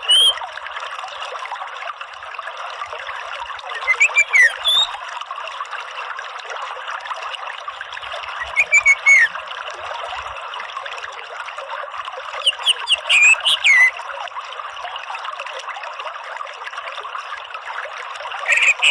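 Orange-headed thrush singing in short, quick phrases of rising and falling whistled notes, one every four seconds or so, over a steady trickle of running water.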